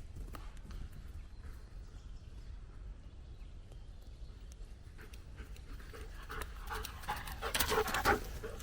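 German shepherd panting in quick, repeated breaths, starting about halfway in and growing louder near the end.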